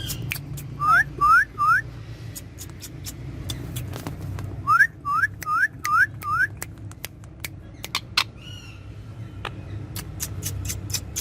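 Indian ringneck parakeet whistling short rising notes, three in a quick row and then five more, with a harsher call later on. Sharp clicks are scattered throughout.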